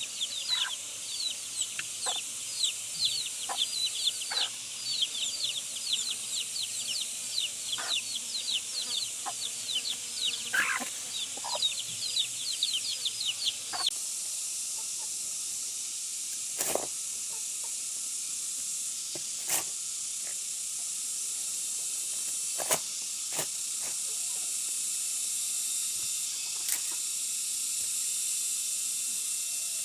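Chicks peeping: many short, high chirps that fall in pitch, in quick succession. About halfway through this gives way to a steady sizzling hiss broken by a few sharp clicks.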